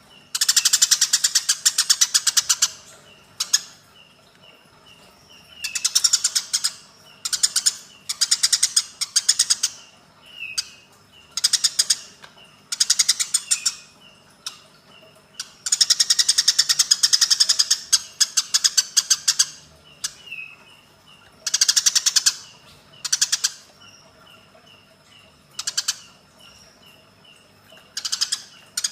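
Eurasian tree sparrows' agitated fighting chatter: bursts of rapid, harsh chirping, each from a fraction of a second to about three seconds long, separated by short pauses filled with softer repeated chirps.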